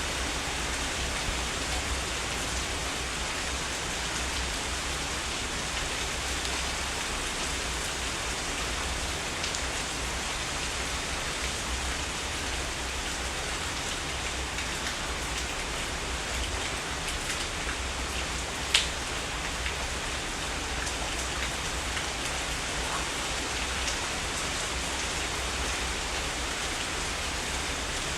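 Heavy rain falling steadily, a dense even hiss with individual drops ticking through it. About two-thirds of the way through, one sharp, louder drop or drip stands out.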